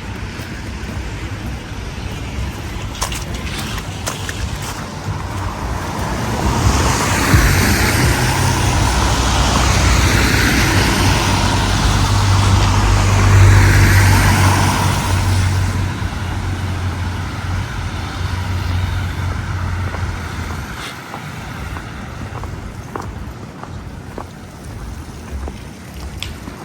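A motor vehicle passes close by on a city street: its low engine hum and road noise swell from about six seconds in, peak, and fade after about sixteen seconds, over steady background traffic noise.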